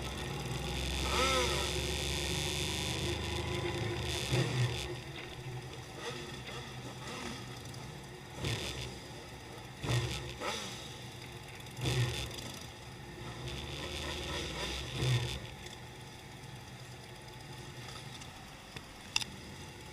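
Motorcycle engines running and revving, with a string of bikes passing one after another; the passes thin out toward the end.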